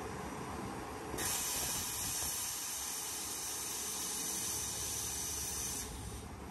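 A steady, high hiss of escaping air or fluid from the crane truck starts suddenly about a second in and cuts off about a second before the end. Underneath it, the truck's engine idles with a low, even rumble.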